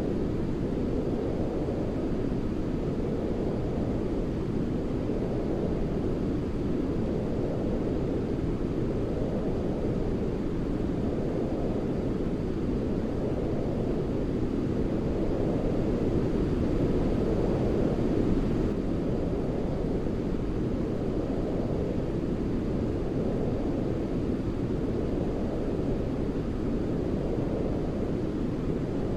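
Steady, deep white noise, a rumbling hiss weighted to the low end, gently swelling and ebbing every two to three seconds.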